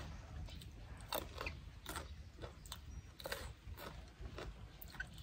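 Close-miked eating: irregular wet clicks and crunches of chewing, spaced unevenly, over a steady low rumble.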